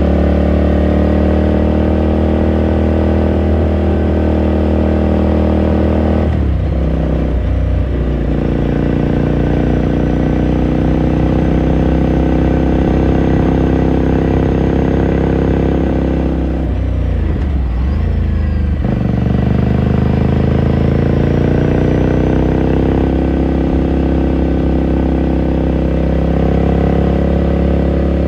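Ducati Scrambler Sixty2's 399 cc air-cooled L-twin riding under way, its exhaust note steady at first. The note breaks briefly about six seconds in and again around seventeen seconds, and after each break the pitch climbs slowly as the bike pulls.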